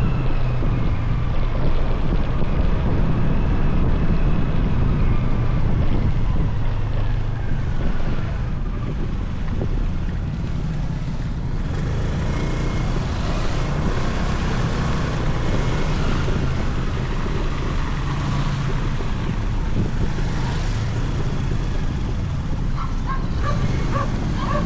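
Motorcycle engine running while riding, its note rising and falling with the throttle, over steady road and wind noise. Near the end, a dog starts barking.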